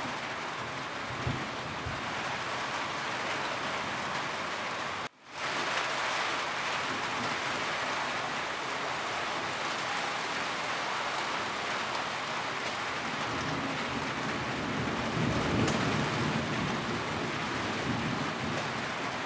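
Steady heavy rain drumming on a roof. The sound cuts out for a split second about five seconds in. A low rumble swells and fades in the second half.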